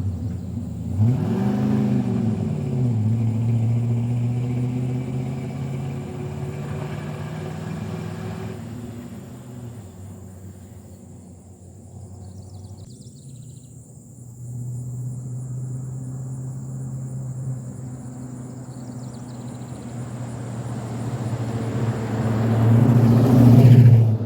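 An engine running with a steady low hum. It revs up and back down about a second in, drops away around the middle, then swells loud near the end.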